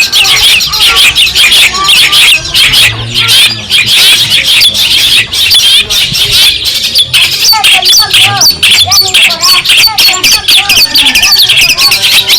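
Long-tailed shrike (cendet) singing a loud, unbroken run of rapid, chattering chirps, with lower, slurred notes mixed in during the second half.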